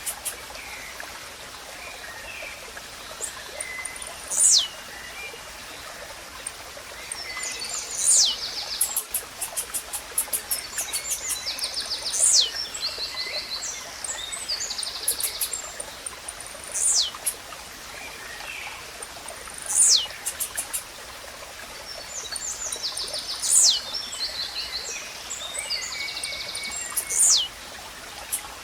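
Blue-black grassquit (tiziu) singing: a sharp high note sweeping steeply down in pitch, repeated about every four seconds. Around it are rapid ticking trills and other small chirps, over the steady rush of a stream.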